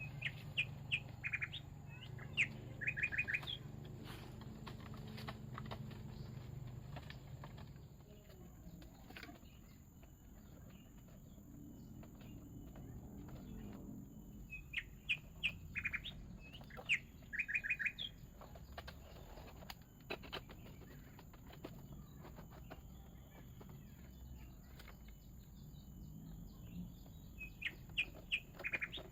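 A forest bird calling in bouts of quick, high chirps: one series near the start, another around the middle and another near the end. Scattered sharp clicks or knocks sound between the bouts.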